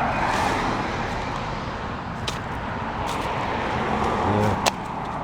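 Road traffic noise from cars going by, a steady rush of tyres and engines, with a couple of light clicks.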